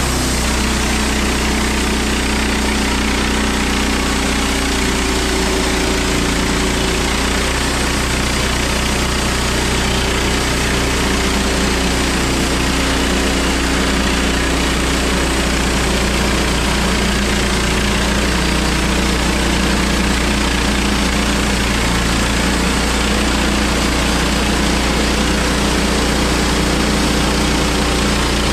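Engine running steadily at a constant speed with a broad hiss, unchanging throughout.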